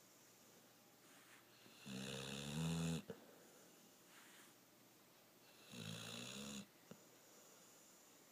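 Pit bull snoring in its sleep: two pitched snores, about two and about six seconds in, the first the louder, each followed by a short click.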